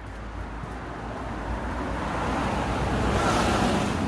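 Road traffic: a car's engine and tyre noise approaching and growing louder, with a tyre hiss swelling about three seconds in.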